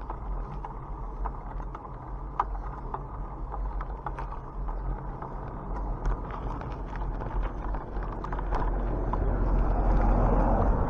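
Bicycle ride noise: a steady low rumble of tyres and wind on the microphone, with scattered small clicks and rattles. The wind noise grows louder over the last few seconds.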